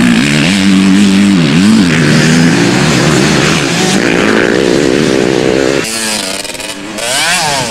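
Motocross bikes revving hard on the track, the engine pitch rising and falling over and over with throttle and gear changes. About six seconds in it drops away to a fainter bike revving up and down quickly.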